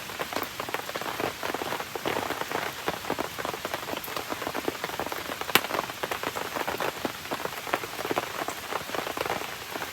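Steady rain pattering on surfaces, thick with small drip and crackle clicks from a campfire burning in the rain, with one sharp snap about halfway through.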